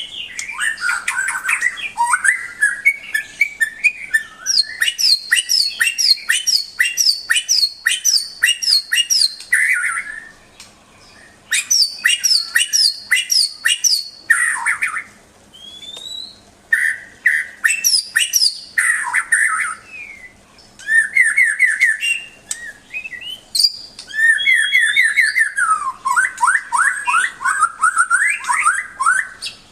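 White-rumped shama (murai batu) singing: phrases of rapid, repeated sharp whistled notes and trills, separated by short pauses. A long fast run of quick downward-sweeping notes comes near the end.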